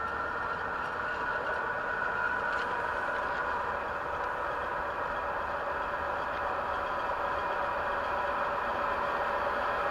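ER2 electric multiple unit running along the track: a steady rolling rumble with a steady whine on top.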